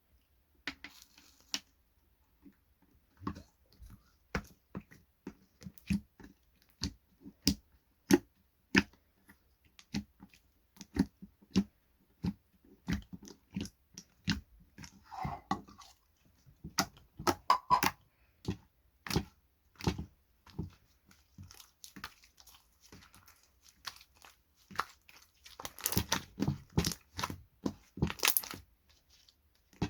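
Slime being squished and pulled by hand, making irregular sharp clicks and pops, thickest near the end.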